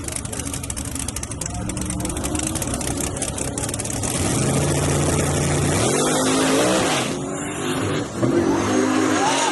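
Drag-racing S10 pickup's engine accelerating hard, rising in pitch and growing louder about four seconds in, with a brief drop in level near the end, like a gear change.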